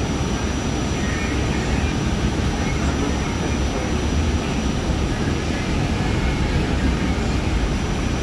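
Steady low rumble of an R44 Staten Island Railway train, with a faint steady high whine over it.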